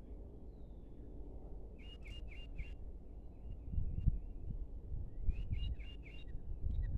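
A small bird calling: two quick runs of four short chirps, about two seconds in and again about five and a half seconds in, with a few fainter chirps between them. Under the calls runs a steady low rumble of wind on the microphone.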